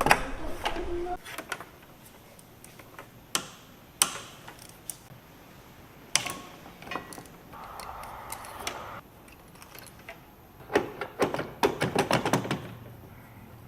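Hand tools and metal parts clinking and clicking during mechanical work on a lawn tractor. Sharp clicks come at scattered moments, a brief steadier noise sounds about eight seconds in, and a quick run of clicks comes at about eleven to twelve seconds.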